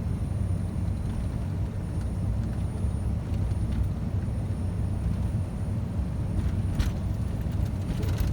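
Scania truck's engine and road noise as heard from inside the cab while driving, a steady low rumble. A couple of short clicks near the end.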